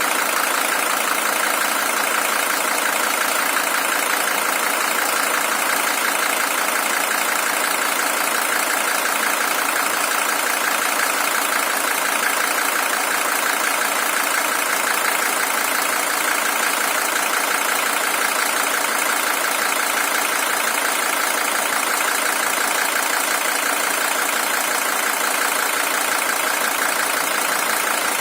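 Mercedes-Benz OM617 five-cylinder diesel engine idling steadily, the original engine with about 620,000 km on it.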